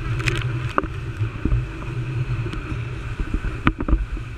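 Motorboat engine running steadily, with wind and water noise and a few sharp knocks.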